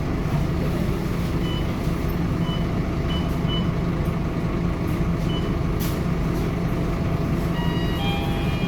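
Scania K230UB Euro 4 bus's diesel engine running steadily, with several short high beeps through the first half and a sharp click about six seconds in; more short tones start near the end.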